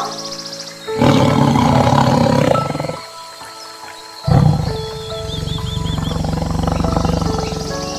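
Lion roaring twice over soft background music: a first roar about a second in, then a second, longer one starting about halfway through and trailing off in low pulsing grunts.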